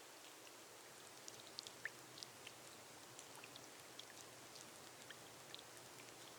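Faint, steady rain on a glass roof: a soft even hiss with scattered individual drops tapping at irregular moments.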